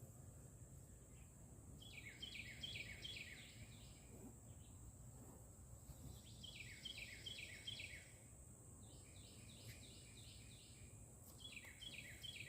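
A songbird singing faintly, four phrases of quick falling whistled notes at about four notes a second, over a quiet outdoor background.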